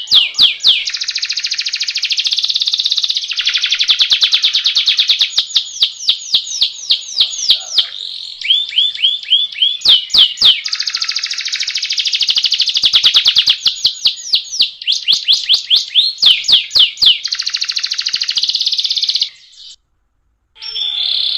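Domestic canary singing long rolling trills: fast runs of rapidly repeated notes, one run flowing into the next. The song breaks off for about a second near the end.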